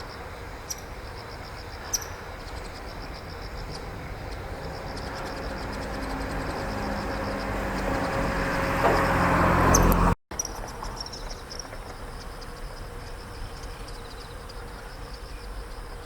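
Insects trilling in a fast, steady pulse, while the rumble of a passing vehicle grows louder for several seconds and cuts off abruptly about ten seconds in; the insect trill carries on afterwards.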